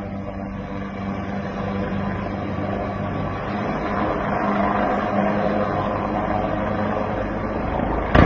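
AgustaWestland AW139 twin-turbine helicopter running steadily close by on approach, with its rotor and turbine sound slowly growing louder. Right at the end comes a sudden loud impact.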